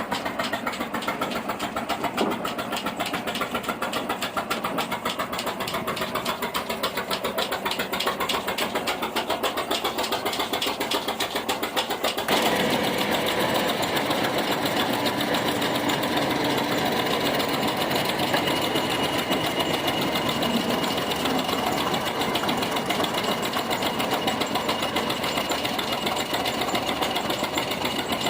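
Ruston & Hornsby 165DS diesel shunting locomotive's engine running with a rapid, even beat. About twelve seconds in the sound steps up suddenly and stays louder and fuller.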